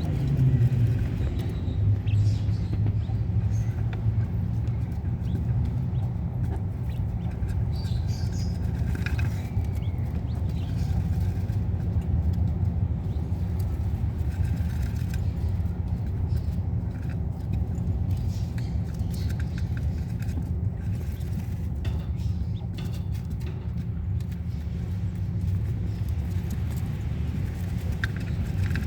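Steady low rumble with faint, scattered wild-bird chirps over it.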